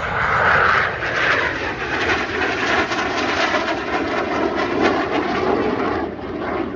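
Cessna A-37 Dragonfly's twin General Electric J85 turbojets running loud as the jet passes; the engine noise falls in pitch over the first couple of seconds, then holds as a steady rush.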